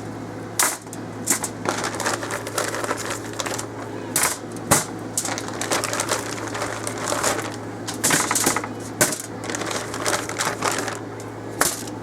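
Chicken wings being dug out of a plastic bag and laid on a foil-lined baking pan: crinkling plastic and foil with irregular clicks and clatters, a few louder knocks among them. A steady low hum runs underneath.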